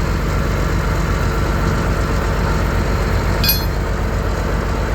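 Vehicle engine idling steadily, with a single brief metallic clink about three and a half seconds in.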